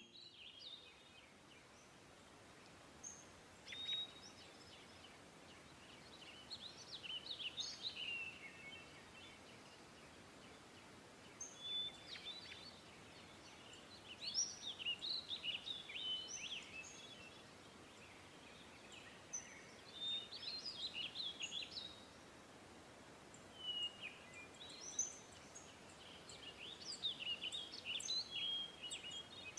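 Songbirds singing in bouts of quick chirps and warbling trills a few seconds apart, over a faint steady hiss of outdoor ambience.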